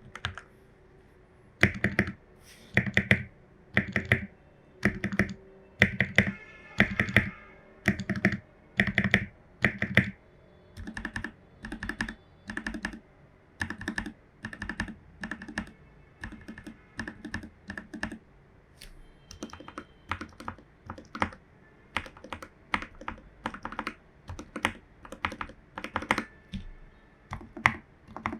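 Typing on a Royal Kludge RK84 mechanical keyboard with lubed Jwick Yellow linear switches, PE foam and a tape mod. For the first several seconds the keys come in loud clusters about once a second, then give way to steadier, quieter typing.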